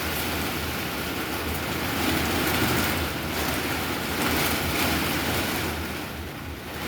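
Heavy rain and strong wind of a severe thunderstorm, a steady rushing hiss that eases briefly near the end.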